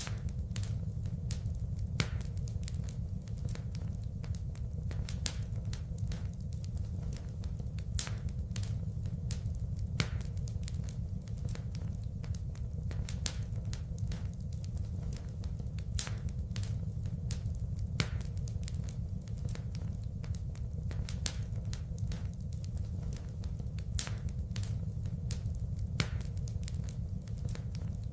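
Wood fire crackling: dense small snaps over a steady low rumble, with a louder pop every few seconds.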